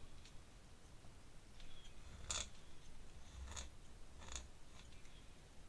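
A few short, scratchy drawing strokes on paper, three of them louder, about a second apart in the second half.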